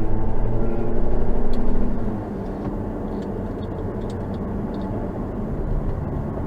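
Car cabin noise while driving: a steady low road and engine rumble. It is louder for the first two seconds, then settles to a lower steady level.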